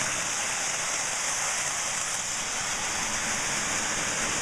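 Lionel O gauge diesel locomotive running at full speed around the track: a steady, even whir of motor and wheels on rail.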